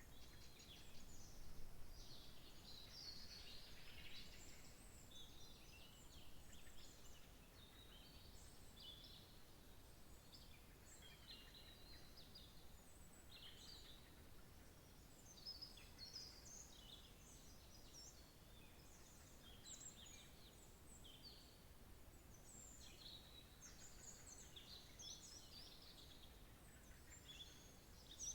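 Faint chorus of songbirds chirping and trilling, many short high calls overlapping, over a soft steady background hiss.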